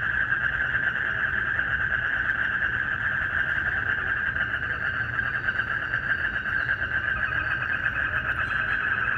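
Dense night chorus of frogs and crickets: a continuous, rapidly pulsing trill, steady throughout, with a low rumble beneath it.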